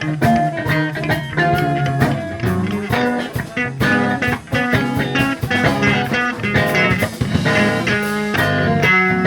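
Instrumental reggae band playing: guitar, bass and drum kit keeping a steady rhythm.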